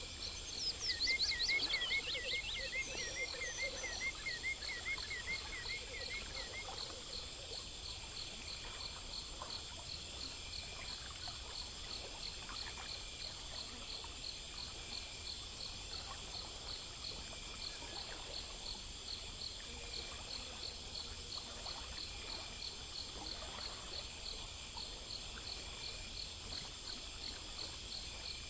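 Insects, crickets among them, in a steady chorus: a constant high buzz and evenly pulsing chirps. For the first six seconds or so a louder rapid animal trill sounds over it, beginning with a few quick falling whistles.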